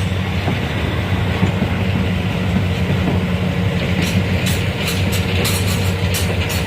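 A rail vehicle runs steadily on the track, its engine giving a constant hum. From about four seconds in, a run of quick clicks sounds over it.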